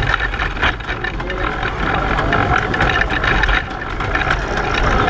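Pedal car rolling at race speed, its body rattling and clicking over the road, with a low rumble of wind on the onboard microphone.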